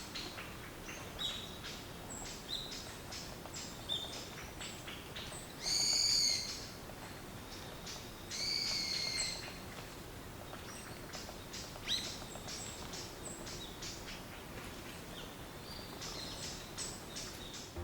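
Bird calls in a natural setting: many short high chirps and ticks throughout, with two longer, louder calls about six and eight and a half seconds in.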